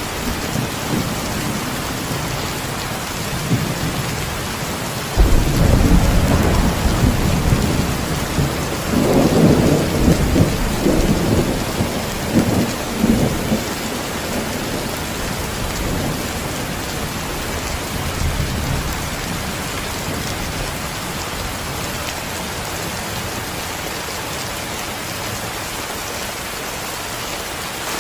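Steady heavy rain with a thunderclap about five seconds in; the thunder rumbles on with crackling peaks for several seconds and dies away, leaving the rain.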